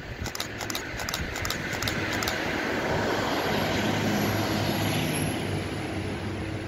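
A passenger multiple-unit train passing on electrified track, its running noise swelling as it comes close and easing off near the end, with a steady low hum and a thin high whine at the loudest point. A run of faint high clicks sounds in the first two seconds.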